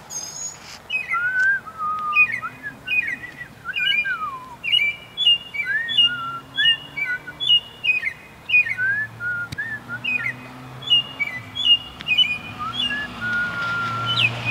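A bird singing loudly in a tree: a fast, unbroken run of varied phrases, with short repeated chirps, slurred whistles that rise and fall, and now and then a longer held whistle.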